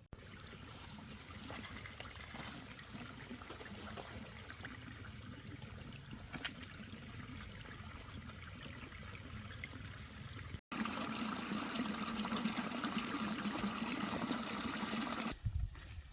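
Running water trickling steadily, in two shots: after a sudden cut about ten seconds in it comes in louder and fuller for a few seconds.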